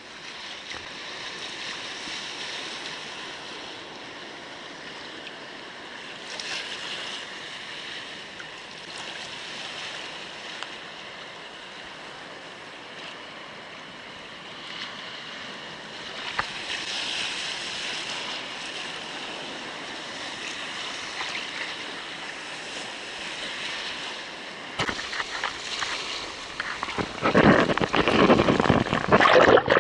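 Seawater washing and lapping around a kayak, a steady rush of small waves. In the last few seconds it turns much louder and choppier, with irregular splashing.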